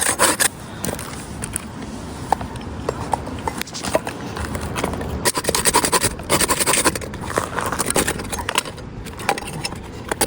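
Hand saw cutting back and forth through firewood in runs of quick rasping strokes. The strokes are softer in the first half and stronger again from about halfway through.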